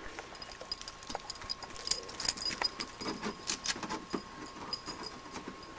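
Scattered light clicks and knocks, an irregular clatter of things being handled, over a faint steady tone.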